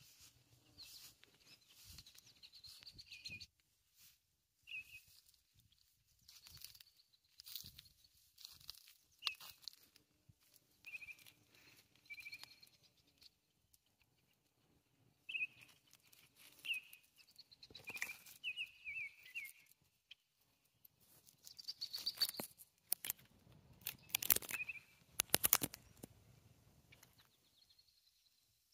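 Small birds chirping in many short calls, several dropping in pitch, mixed with close crackling and rustling that is loudest in a few bursts near the end.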